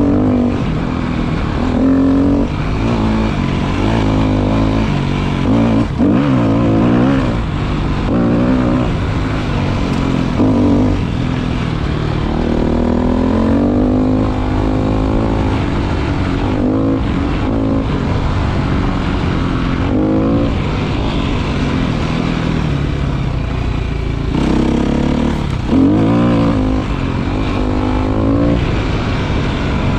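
Motorcycle engine under way, its pitch rising and falling again and again as the throttle opens and closes, over a steady low rumble.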